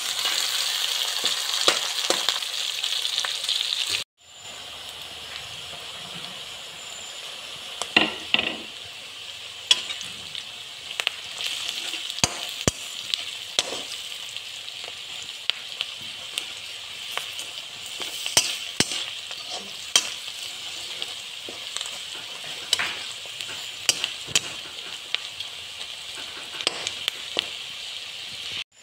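Sliced onions frying in oil in a metal wok, with a steady sizzle and a slotted spatula scraping and clicking against the pan as they are stirred. The sizzle is loud for about four seconds, then cuts off and comes back softer as the onions cook on with an added spice mixture.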